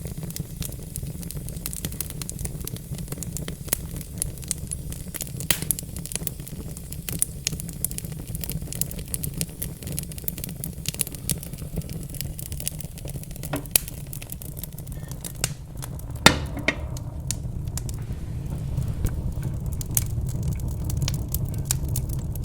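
Wood fire in a fireplace crackling, with many scattered sharp pops over a steady low rumble. One louder pop comes about sixteen seconds in.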